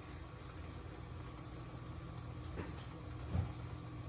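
Faint steady low hum of kitchen background noise, with one soft knock about three and a half seconds in.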